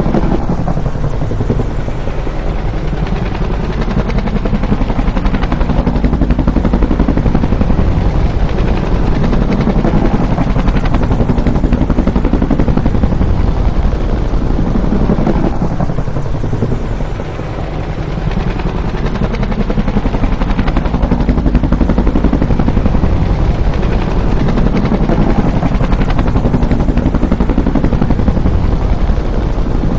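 Bell UH-1 "Huey" helicopter flying, its two-blade main rotor beating fast and steadily. The sound is loud and continuous, with its pitch swelling up and down every several seconds and dipping slightly just past the middle.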